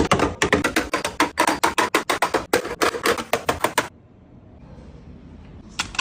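Rapid clicking and clattering of items being handled and set into a refrigerator while restocking it. The clicks come thick and fast for about four seconds, then stop.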